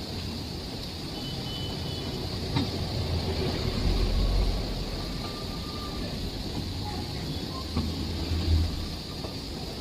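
Steady low rumble of a running train, with a few sharp clicks and two louder low swells, about four and about eight and a half seconds in.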